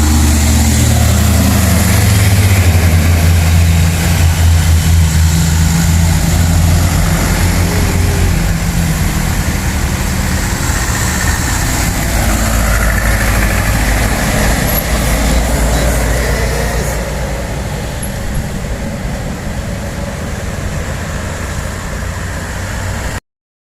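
Heavy truck engine running with a deep, steady drone and road noise that slowly fades as the truck moves away. The sound cuts off abruptly near the end.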